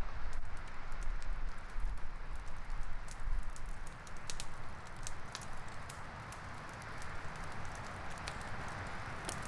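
Wood campfire crackling: sharp pops and snaps, sparse at first and more frequent from about four seconds in, over a steady hiss, with a low rumble in the first few seconds.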